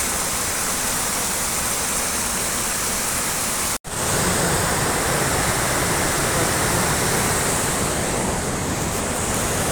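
Steady rushing water: floodwater runoff from a night of heavy rain. The sound drops out for an instant about four seconds in, then carries on unchanged.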